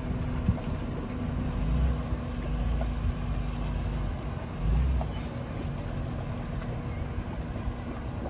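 Car engine running with a low, steady rumble and hum, swelling louder twice, about two seconds and five seconds in.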